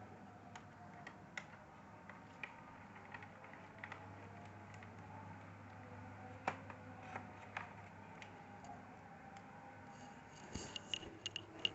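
Scattered small clicks and taps of laptop plastic casing parts and components being handled and fitted together, a few sharper ones midway and a quick run of clicks near the end, over a faint steady hum.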